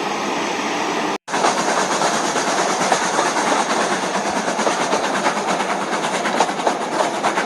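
Train running along its track: a steady rattling noise with fast, irregular clicks, cut off briefly about a second in before resuming.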